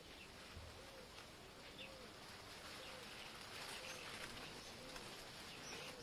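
Faint outdoor birdsong: short, low arched notes repeated about twice a second, with a few faint high chirps over a steady background hiss.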